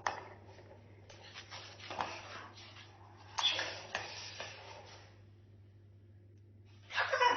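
Cockatoo scratching and rustling at something, with a few sharp clicks and taps, then a pause. A loud squawk-like call starts near the end.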